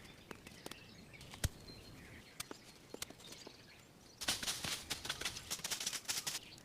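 Dry leaves and twigs on a forest floor: scattered small snaps and clicks, then a stretch of dense rustling and crackling starting about four seconds in.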